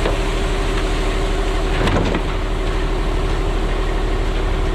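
An engine running steadily, with a single short knock about two seconds in.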